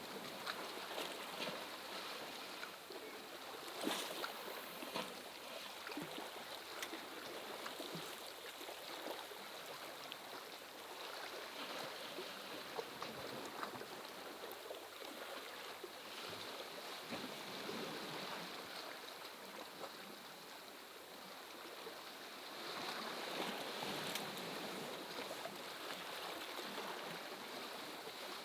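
Steady rain falling: a constant wash of water noise with many small drop ticks scattered through it, swelling a little near the end.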